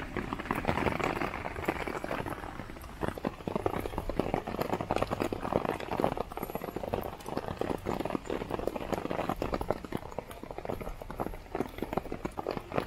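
Heavy rain drumming on a tarp overhead: a dense, steady patter of drops.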